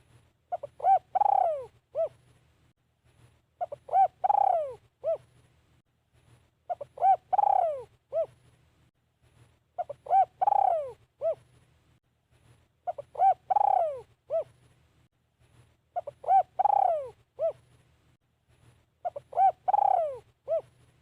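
Spotted dove cooing: a repeated phrase about every three seconds, a few short coos followed by one longer falling coo, the call of a decoy male used to lure wild doves.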